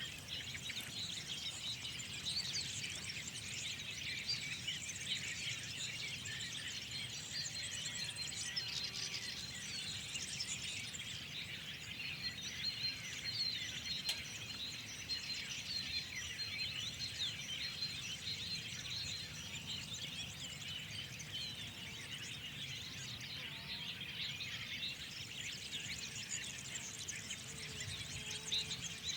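Dawn-chorus-like mix of many songbirds chirping and trilling at once, dense and continuous, over a faint low background noise. A thin high steady trill stands out for a few seconds near the middle.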